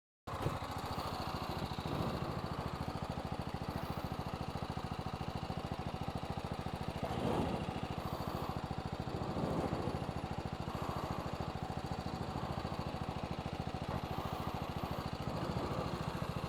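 BMW G 310 GS motorcycle's single-cylinder engine idling steadily.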